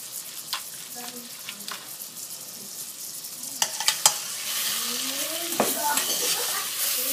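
Shrimp sizzling in butter in a stainless steel pot while being stirred, with occasional sharp clicks against the pot; the sizzle grows louder about four and a half seconds in.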